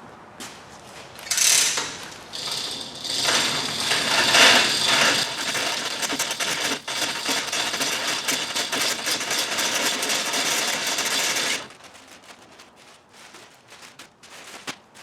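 Dense mechanical rattling and clicking, like a ratchet or a geared mechanism. It starts about a second in, runs for about ten seconds and stops abruptly.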